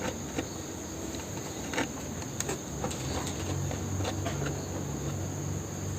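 Steady high-pitched insect trilling, like crickets, with scattered light clicks and taps. A low hum comes in about halfway through.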